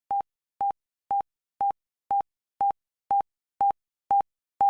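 Countdown timer beeping: short electronic beeps at one steady pitch, two a second, growing slightly louder.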